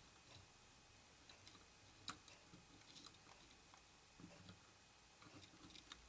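Near silence with a few faint, scattered clicks and taps, the sharpest about two seconds in.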